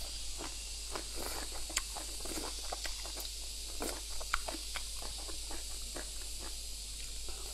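Mouth sounds of someone chewing and biting through a mouthful of whole chive stalks dressed in chili oil, with irregular short, crisp, wet clicks and snaps.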